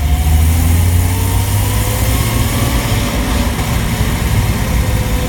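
1993 Jeep Wrangler YJ under way: the engine and drivetrain run steadily with a deep rumble, and a thin whine rises in pitch over the first couple of seconds, then levels off.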